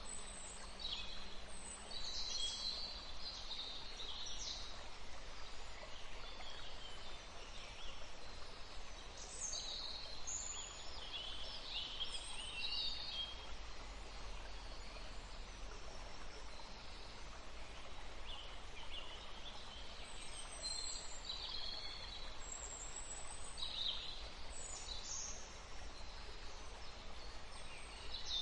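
Forest ambience of several songbirds chirping and trilling in short bursts over a steady background hiss and low rumble.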